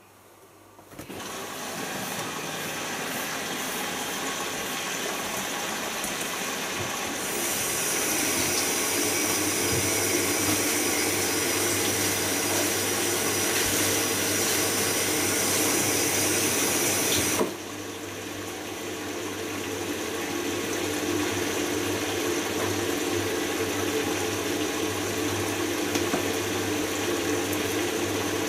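Bosch Logixx washing machine drawing water in at the start of a wash cycle: a steady rushing hiss starts about a second in, grows louder about seven seconds in, drops suddenly about ten seconds later, then carries on more quietly.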